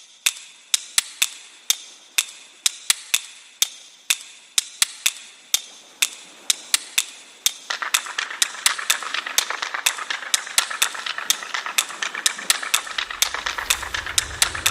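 A run of sharp, irregular clicks or taps that come faster toward the end, with a hiss setting in beneath them about eight seconds in and growing.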